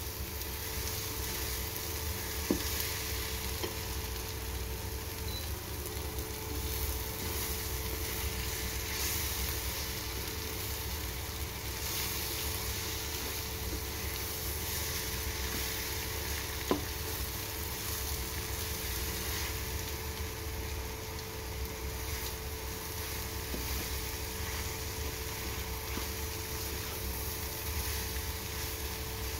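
Bitter gourd and egg sizzling as they fry in a pan, stirred gently with a spatula, with two sharp clicks of the spatula against the pan. A steady low hum runs underneath.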